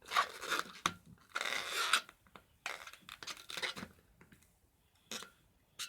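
Inflated latex modelling balloon rubbing and scraping in the hands as it is twisted, in irregular scratchy rubs that die away about four seconds in, with one short sharp rub just after five seconds.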